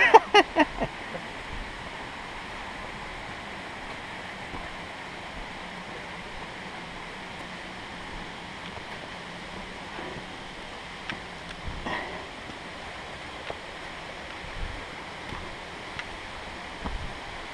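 Steady rushing of flowing stream water, an even wash of noise, with a few faint brief knocks.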